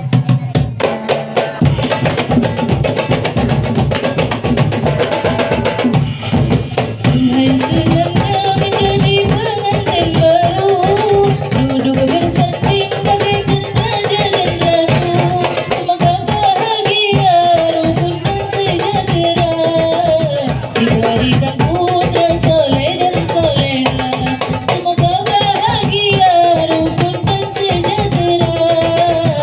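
Islamic sholawat music: voices singing a devotional melody over a busy, steady hand-drum rhythm.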